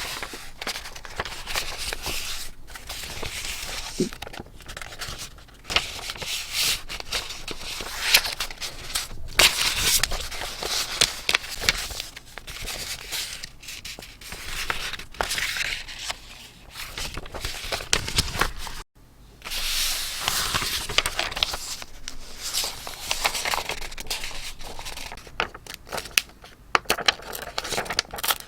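Paper being handled close up: rustling, crinkling and tearing with scattered sharp snips and clicks of scrapbooking materials. The sound cuts out briefly about two-thirds of the way through.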